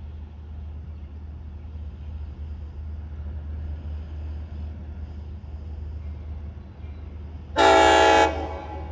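Train horn sounding one short blast near the end, over a steady low rumble.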